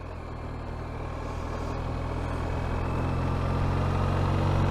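Motorcycle engine running under way with a hiss of wind, the sound growing gradually louder.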